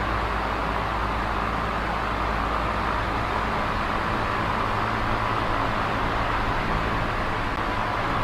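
Small oscillating electric fan running steadily: an even rush of air with a low motor hum underneath.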